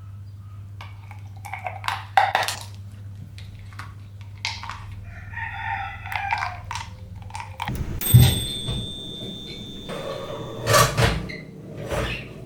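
A rooster crowing once, among scattered knocks and clinks.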